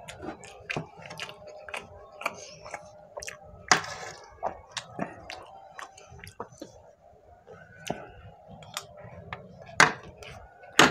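Close-miked chewing and wet mouth sounds of someone eating mutton pulao rice, with sharp clicks and scrapes of a metal spoon against the serving tray. The loudest clicks come a little under four seconds in and twice near the end.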